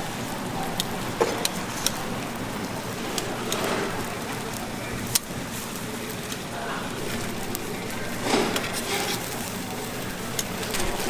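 Food sizzling and crackling on a flat-top griddle, a steady hiss broken by scattered sharp clicks and taps.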